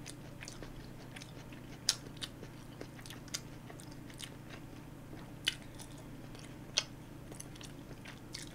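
Close-miked chewing of chewy tteokbokki rice cakes: soft wet mouth clicks and smacks, with a few sharper ones about two, five and a half and seven seconds in, over a faint steady low hum.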